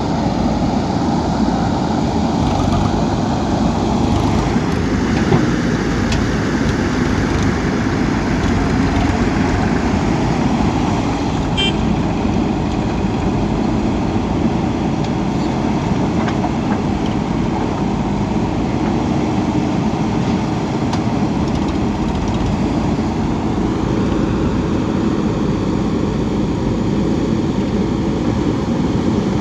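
JCB 3DX backhoe loader's diesel engine running steadily and loudly.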